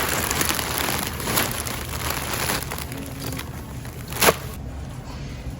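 Rustling and crinkling handling noise with many small clicks, and one sharp click about four seconds in that is the loudest sound.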